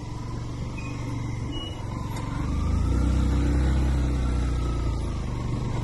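Motorcycle engine running as the bike rides along a rough road, getting louder about two and a half seconds in and easing off a little near the end.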